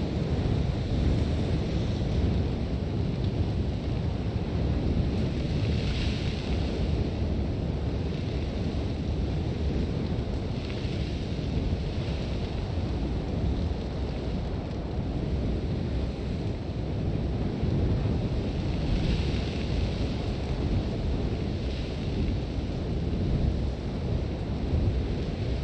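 Sandstorm wind with a heavy, steady low rumble, and gusts every few seconds that bring a louder hiss of blowing sand.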